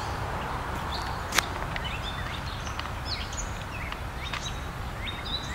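Small songbirds chirping outdoors in short repeated calls, more often toward the end, over a steady low rumble. A single sharp click about a second and a half in.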